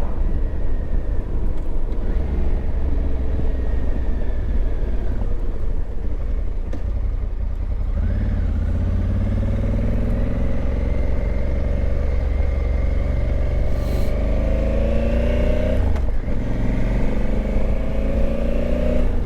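Honda Africa Twin's parallel-twin engine pulling under acceleration, its pitch rising steadily from about halfway through, dropping at a gear change and climbing again. A heavy, steady low rumble of wind on the rider's microphone runs underneath.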